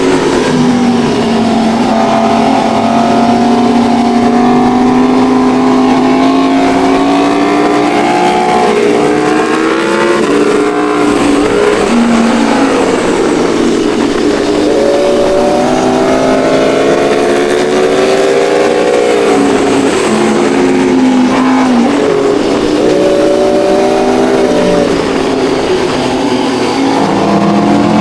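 Superbike engines running hard under throttle, the pitch climbing steadily for several seconds and then falling away, a few times over.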